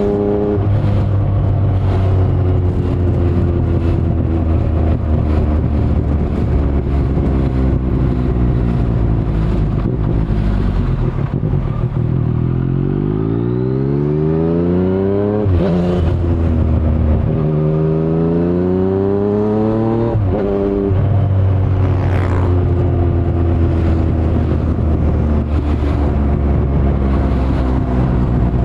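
2019 Yamaha MT-09's inline-three engine through an Akrapovic carbon full-system exhaust with the dB killer removed, running at a steady low engine speed. Partway through it revs up hard twice in a row, with a quick gear change between the two climbs, then drops back to the steady low note.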